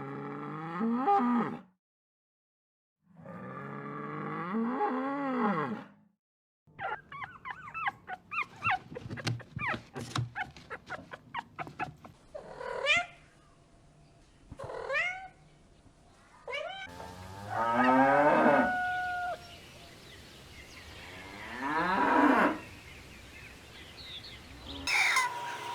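A string of separate animal calls: a cow moos twice, long and low, in the first six seconds, then come rapid chirping calls and several shorter, higher calls from other animals.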